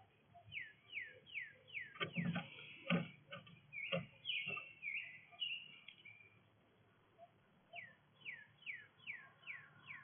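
A songbird calling a quick series of downward-slurred chirps, about three a second, in two runs near the start and the end. Between them come a few short knocks and some jumbled chirps.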